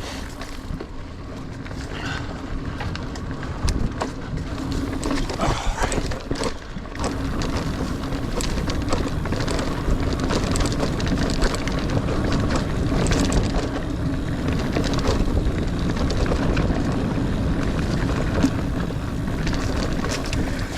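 A 29er mountain bike ridden over dirt singletrack: tyres rumbling on the trail, with frequent clicks and rattles from the bike over bumps, and wind on the microphone. It gets louder about seven seconds in.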